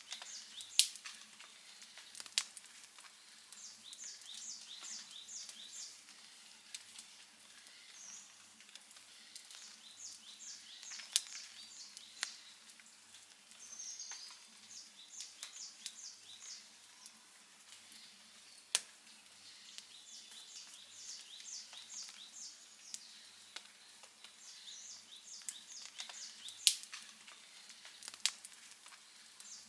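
Outdoor wood campfire crackling over a soft hiss, with sharp pops, the loudest about a second in and near the end. Behind it, a high chirping call repeats in short rapid trains every few seconds.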